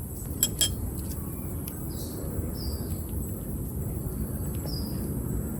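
Outdoor forest ambience: a steady low rumble, two sharp clicks about half a second in, and a few short high chirps from birds.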